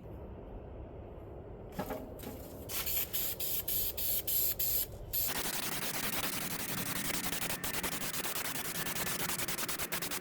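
Paint being sprayed: a few short hissing spurts, then a steady spray from about five seconds in.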